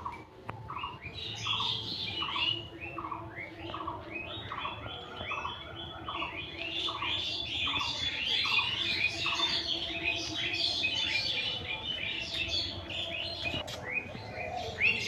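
Several birds chirping together: one repeats a short note about twice a second, while others chirp higher over it.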